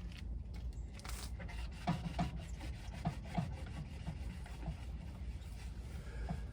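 Engine oil dripping from the drain hole into a drain pan, nearly finished draining: faint, irregular drips over a low steady hum.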